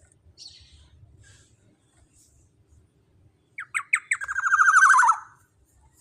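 Black-naped oriole (kepodang emas) calling: a few faint high chirps, then about three and a half seconds in a few quick downward notes, followed by a fast, loud run of falling notes lasting about a second.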